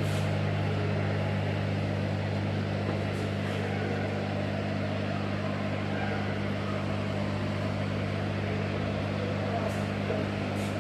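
Steady low mechanical hum over a constant background hiss.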